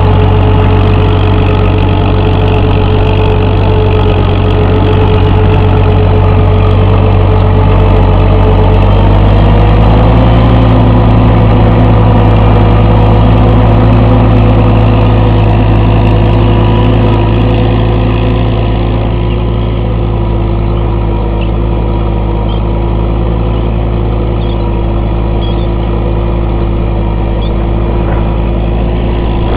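McCormick (International Harvester) I4 tractor's four-cylinder engine running steadily. Its pitch rises slightly about a third of the way in, and it runs a little quieter from past the middle.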